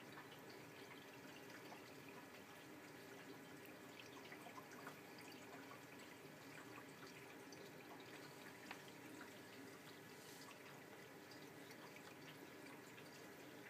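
Faint water trickling and dripping inside a Miele W562 front-loading washing machine as it takes in water for the main wash, over a low steady machine hum, before the drum starts tumbling.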